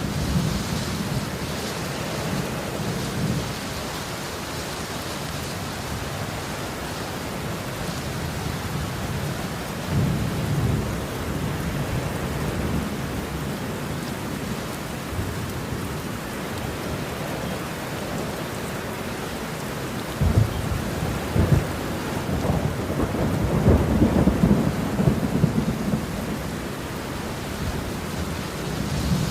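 Steady rain with rolling thunder in a thunderstorm. A low rumble swells about ten seconds in; from about twenty seconds in comes a longer, louder run of thunder that opens with a couple of sharp cracks and rolls on for several seconds.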